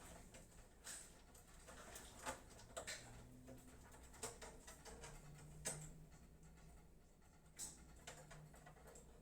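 Near silence with a faint low hum, broken by about half a dozen scattered small clicks and taps from handling computer parts and cables.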